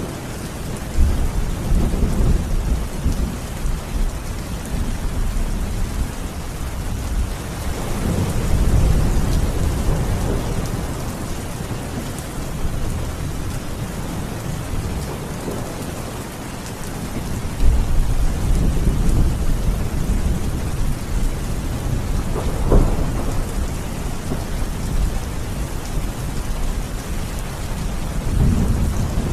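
Steady rain with thunder rumbling several times, including one sharper clap a little past the middle.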